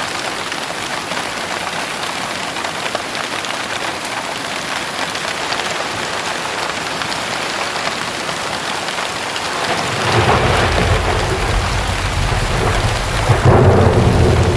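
Heavy rain falling steadily, with a low rumble of thunder coming in about ten seconds in and swelling louder near the end.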